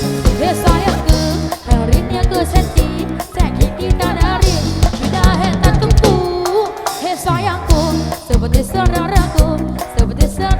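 Live band music: a drum kit keeps a steady beat under a heavy bass, and a lead melody of bending, sliding notes runs on top.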